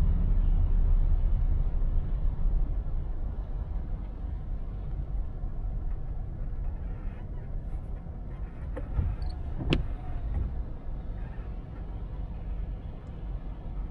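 Car on the move: a steady low rumble of road and engine noise that eases off over the first few seconds, with one sharp click about ten seconds in.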